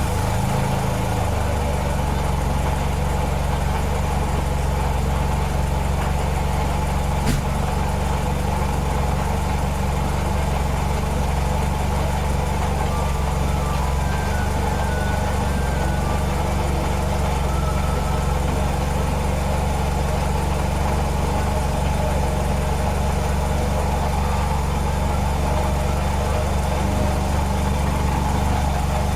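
Mitsubishi Celeste's engine idling steadily just after starting, its speed settling within the first second or so.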